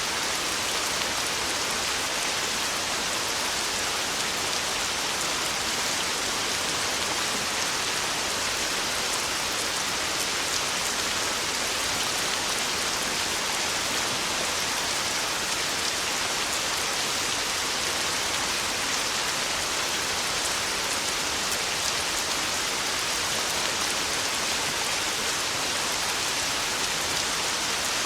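Heavy rain falling steadily: a dense, even hiss with fine drop patter, no thunder.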